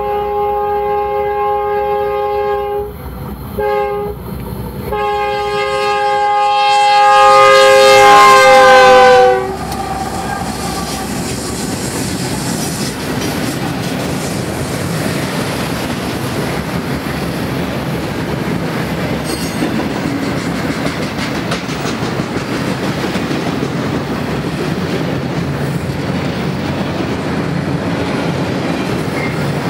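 Diesel freight locomotive's air horn sounding several notes at once: a long blast, a short one, then a long blast that grows loud and drops in pitch as the locomotive passes, about nine seconds in. After that, the steady rumble and clickety-clack of autorack cars rolling by.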